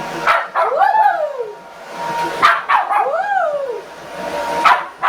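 A dog barking and yowling at a hair dryer: two long calls that rise and fall in pitch, with short sharp barks between them.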